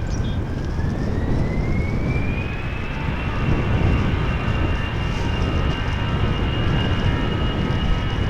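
Jet airliner engines spooling up: a whine rises in pitch over the first few seconds, then holds steady over a loud, continuous rumble.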